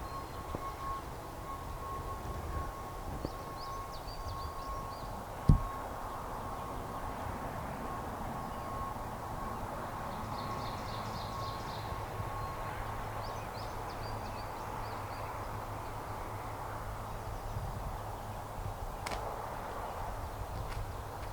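Outdoor field ambience: a steady background hush with a few short bursts of small birds chirping, and a single dull low thump about five seconds in.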